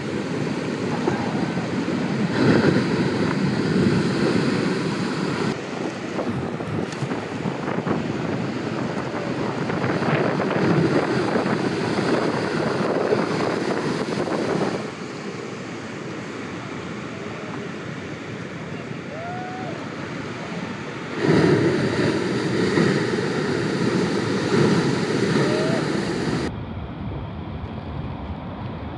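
Ocean surf with wind buffeting the microphone, in several cut-together clips whose level jumps up or down abruptly a few times.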